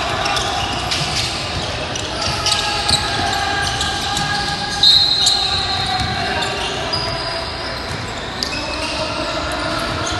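Basketball game in a gym: a ball bouncing on the hardwood and sneakers squeaking, with a high squeak about five seconds in, over players' and spectators' voices echoing in the hall.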